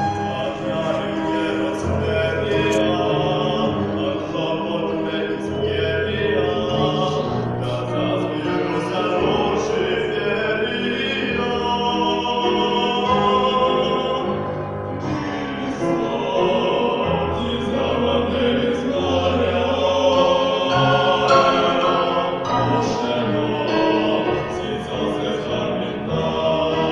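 A choir singing a classical-style piece in parts, with held notes and a low bass line underneath.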